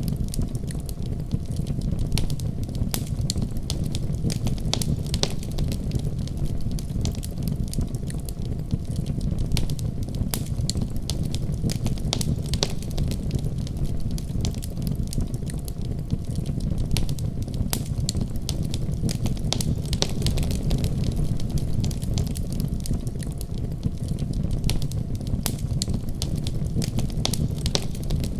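Wood fire burning with a steady low rush and frequent sharp crackles and pops scattered throughout.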